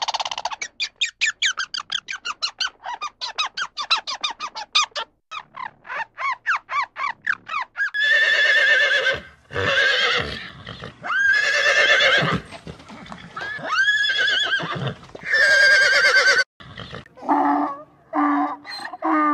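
A squirrel chattering in a fast string of short, high chirps, about five a second, for roughly the first eight seconds. Then a horse neighing and whinnying, about five long wavering calls. Near the end a donkey starts braying in short repeated pulses.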